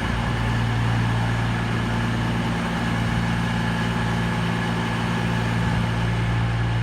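CrossCountry Class 220 Voyager diesel multiple unit standing with its underfloor diesel engines idling, a steady, even hum.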